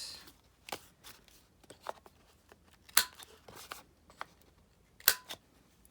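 A handful of sharp, irregularly spaced snips of paper being cut as the corners of a journal card are rounded, the loudest about three and five seconds in.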